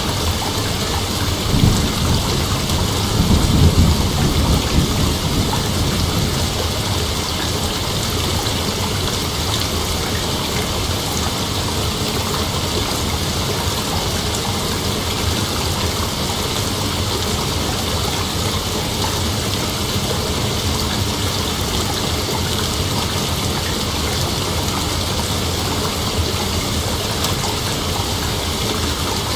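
Steady rain hiss, with a low rumble of thunder about two to five seconds in.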